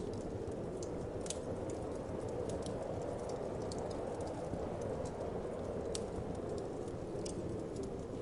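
Wood fire crackling, with irregular sharp pops and snaps, over a steady low whoosh of wind.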